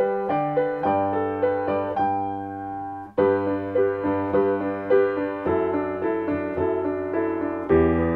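Solo piano playing a choral accompaniment part without voices, a steady stream of struck notes and chords at a moderate tempo. About three seconds in, a held chord fades and there is a momentary break before the playing picks up again, with fuller bass notes near the end.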